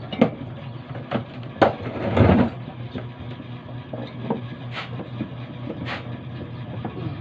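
Several sharp knocks and one longer, louder clatter about two seconds in, from tools and parts being handled during washing machine repair work, over a steady low hum.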